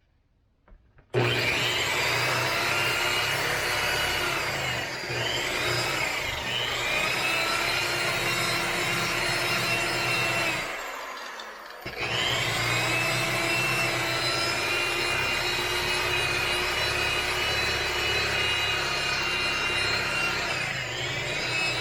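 Electric orbital buffer switched on about a second in, running at speed setting 3 as it works scratch-and-scuff compound into car paint: a steady motor whine whose pitch sags a few times. It winds down and starts up again about eleven seconds in.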